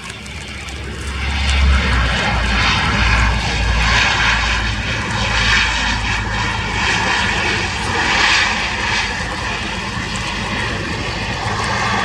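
Twin turboprop engines and propellers of a Bombardier Dash 8-300 airliner running loud during its landing, the sound swelling about a second in and then holding.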